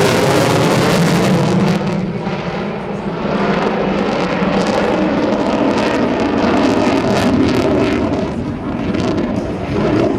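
Jet noise from an F-15E Strike Eagle's twin turbofan engines as the jet passes over the field for its tactical pitch-up before landing. It is loud for about the first two seconds, then drops off and carries on at a lower, swelling level.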